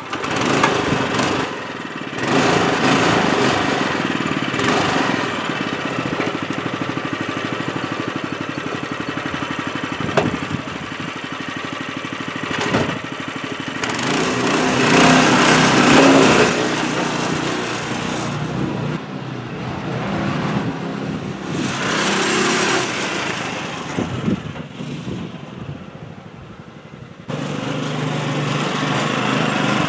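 Small single-cylinder Honda GX110 engine running, its speed and loudness rising and falling, with an abrupt jump in the sound near the end.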